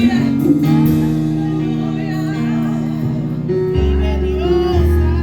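Worship band music: held chords, with a deep bass note coming in near the end.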